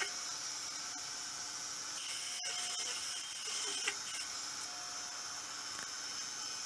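Wood lathe running with sandpaper held against the spinning resin-and-wood turning, a steady hiss, with a couple of light clicks partway through.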